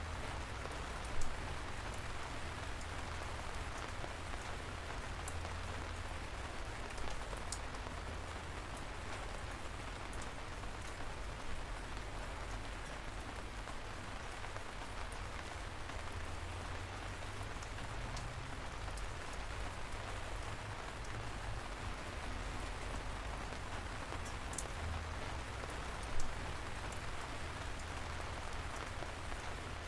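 Light rain falling steadily. Scattered individual drops tick sharply close by, with two louder drop hits, one about a second in and one near the end.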